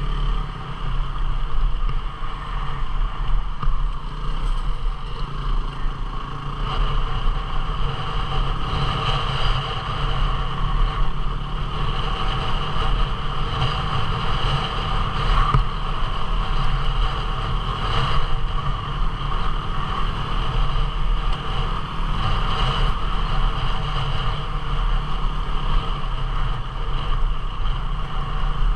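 250cc single-cylinder four-stroke dual-sport motorcycle engine running steadily while riding, heard from on the bike, with the engine note holding fairly even and no sharp revving.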